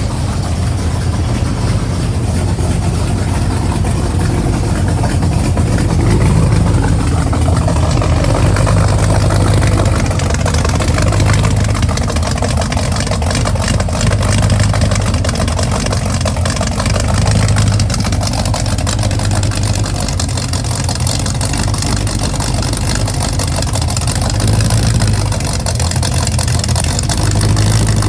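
Supercharged 355 small-block V8 idling through a 3-inch dual exhaust with Flowmaster FX mufflers, a steady low exhaust note with slight swells in level.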